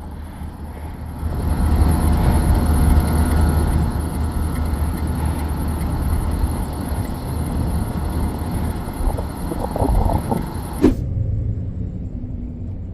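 Pickup truck engine running steadily with a low drone, louder from about a second and a half in, while plowing snow; the sound changes abruptly near the end.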